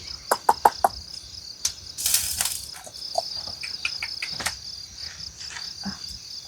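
Crickets chirring in a steady, finely pulsing high trill. Several sharp clicks and crackles come in the first second, a short hiss about two seconds in, and scattered smaller clicks after.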